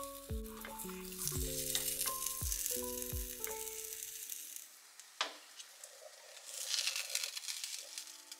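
An egg-dipped Monte Cristo sandwich sizzling in hot oil in a frying pan, with a single sharp click about five seconds in. Background music with a light beat plays over the first half and stops about four seconds in.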